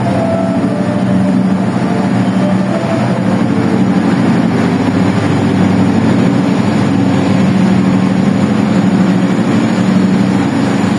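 A passenger train's diesel engine running with a steady, loud low drone.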